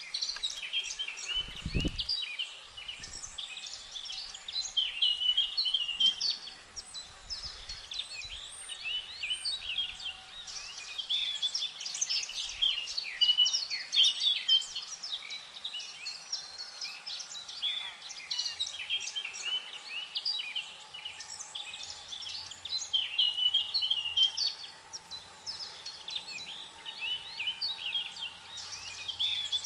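Many small birds chirping and calling over one another in a continuous, busy chorus, with a brief low thump about two seconds in.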